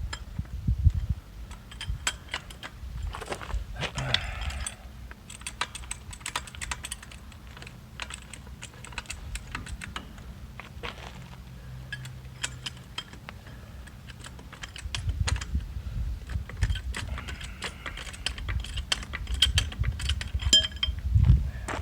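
Irregular clicking and clinking of metal hand tools being worked, with low knocks and bumps of handling.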